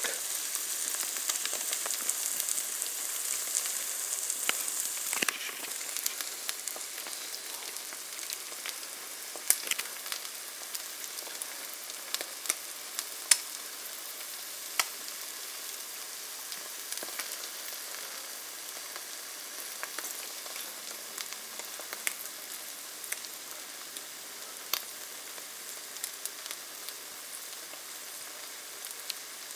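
Egg-in-a-hole bread slices frying in butter in a pan: a steady sizzle with scattered pops, louder for the first five seconds or so and then settling lower.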